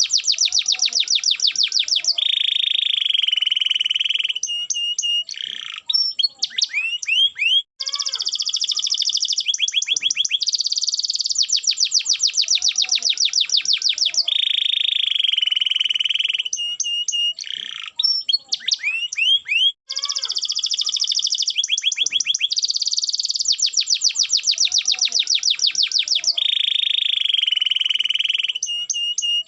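Domestic canary singing: very fast high trills, then a steady buzzing roll held for about two seconds, then short chips and quick rising whistles. The same song sequence repeats about every twelve seconds, as a looped recording.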